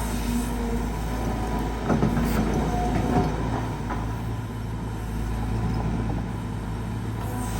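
Caterpillar 320GX excavator's four-cylinder Cat C4.4 diesel running steadily under digging load, with the hydraulic pump's steady tones over the engine drone. About two to three seconds in there is a burst of scraping and knocking as the bucket works hard laterite soil.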